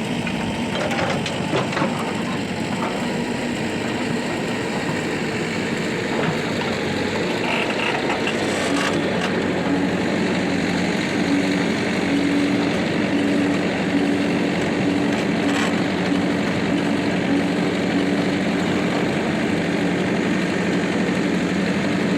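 Heavy diesel engines running steadily at an earthmoving job, with a steady hum that joins about nine seconds in and a few faint knocks.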